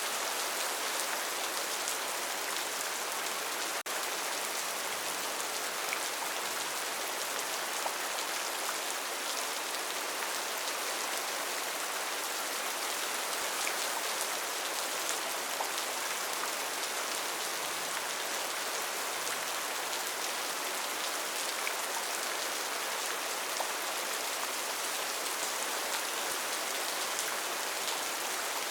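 Steady rain falling on rainforest foliage, a dense even hiss of drops with small individual drop ticks scattered through it. There is a split-second dip in level about four seconds in.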